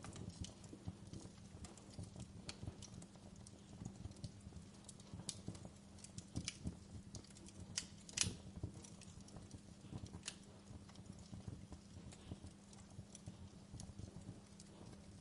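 Wood fire burning in a fireplace: irregular crackles and small pops over a low steady hum, with one louder pop about eight seconds in.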